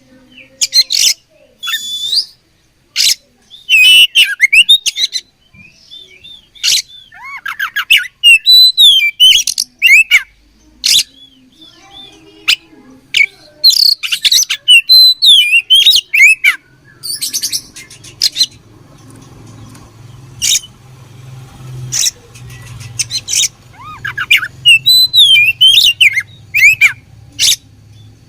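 Oriental magpie-robin (kacer) singing loudly in bursts: sharp, hard chips mixed with quick whistled phrases that rise and fall, with short gaps between bursts and fewer calls around the middle.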